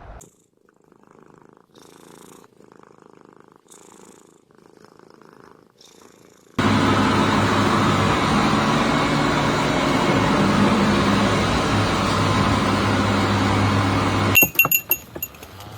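Domestic cat purring in soft, rhythmic breaths about once a second. From about six and a half seconds in, a much louder, steady purr-like rumble starts abruptly. A few bright clinks near the end.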